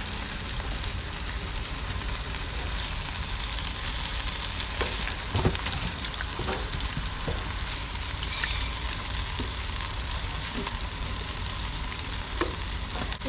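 Sausages sizzling as they fry, a steady crackling hiss, with a few light knocks about five and a half and twelve and a half seconds in.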